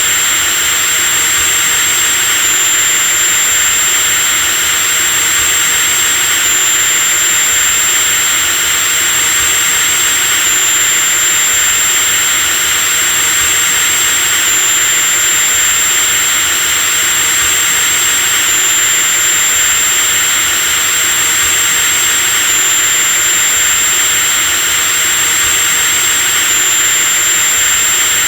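Electric drilling machine running steadily at constant speed: a loud, even motor noise with a high whine that steps slightly in pitch about every four seconds.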